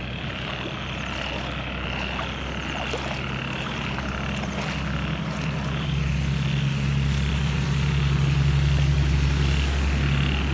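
A motor engine runs with a steady low hum that grows louder through the second half, as if coming closer. Frogs call in a pulsing chorus behind it.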